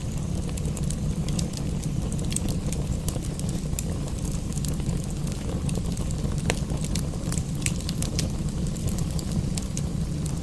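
Wood fire in a fireplace crackling, with frequent sharp irregular pops and snaps over a steady low rumble.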